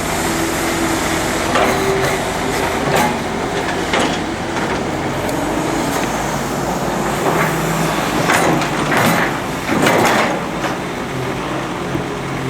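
Hydraulic excavator engine running steadily, its pitch shifting as it works, with several sharp clanks and scrapes of the bucket and steel parts.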